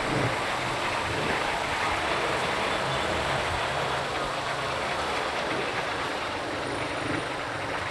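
Motorcycle running at a steady pace, a low engine hum under a steady rush of wind and road noise.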